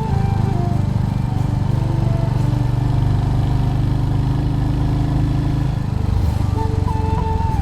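Royal Enfield Hunter 350's single-cylinder engine running steadily under way, with a quick pulsing beat; the engine note dips briefly about six seconds in, then picks up again.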